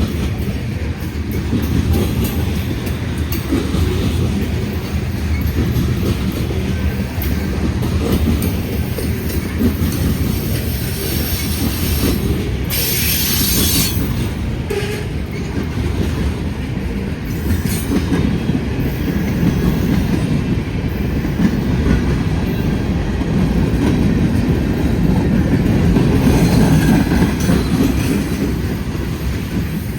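Freight train cars rolling past close by, a steady rumble and clatter of wheels on rail joints, with a brief high hiss or squeal about thirteen seconds in.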